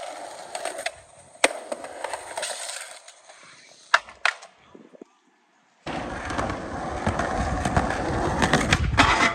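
Skateboard wheels rolling on pavement, with sharp board clacks about a second and a half in and near four seconds. After a brief break just past five seconds the rolling comes back louder and rougher, with a low rumble and a few more clacks near the end.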